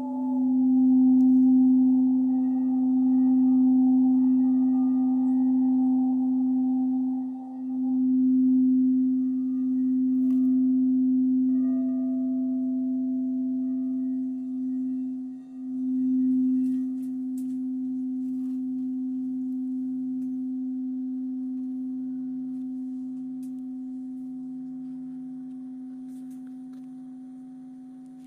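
Singing bowl sounding one steady low tone with fainter higher overtones. It holds strong, dipping briefly twice, then rings on and slowly fades away over the second half.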